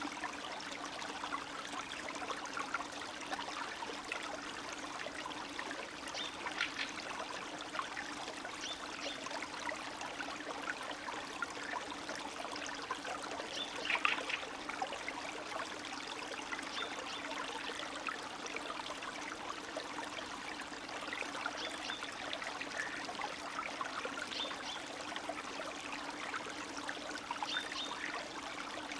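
Spring stream running steadily, with many small trickles and splashes and one slightly louder splash about halfway through.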